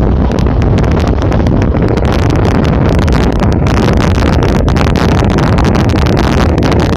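Wind rushing over the microphone at the open door of a moving passenger train, over the steady rumble of the train running on the rails, with many short knocks and rattles through it.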